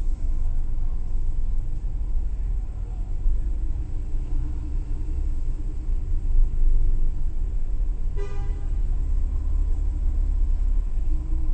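Porsche 997.2 Carrera 4S's 3.8-litre flat-six running at low revs, heard from inside the cabin as the car pulls away slowly, a steady low rumble. A short beep sounds about eight seconds in.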